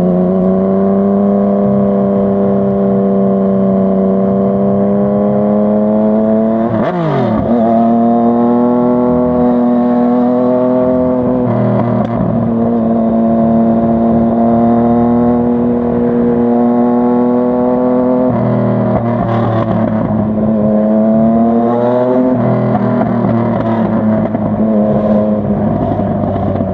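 Yamaha MT-09's inline-three engine under way, its pitch climbing steadily as it pulls in gear. About seven seconds in the revs drop sharply and pick up again, and they step down twice more later on, as at gear changes.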